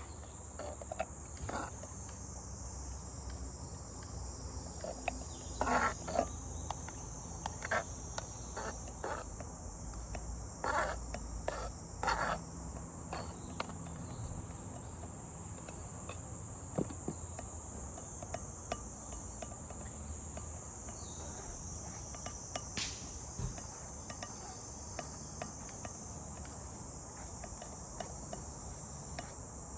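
A steady, high-pitched chorus of insects, with a few short clicks and knocks in the first half, the loudest around six and twelve seconds in.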